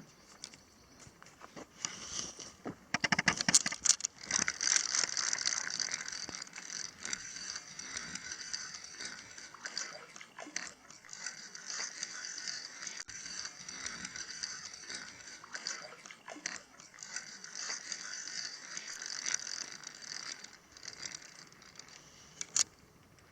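Fishing reel being cranked, a fast steady clicking whir as line is wound in on a hooked fish, after a few louder clacks about three seconds in; it stops shortly before the end, followed by a single click.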